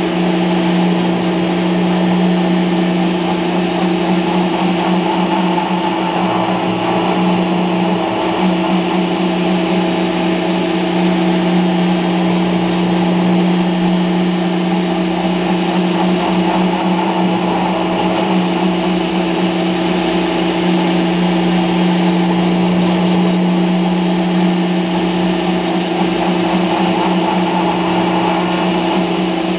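Router spindle on a homemade CNC machine running steadily while roughing out foam: a constant motor hum that holds the same pitch throughout.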